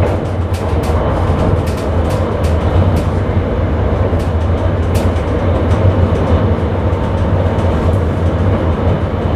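Sprinter commuter train running at speed, heard from the driver's cab: a steady low rumble and drone with short sharp clicks from the wheels over the track, most frequent in the first half.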